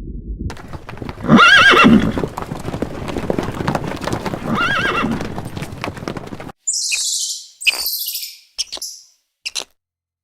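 A horse neighs twice, each a shaky wavering whinny, over a steady patter of hoof clops. About six and a half seconds in, this cuts off abruptly and gives way to a series of short, very high chirps.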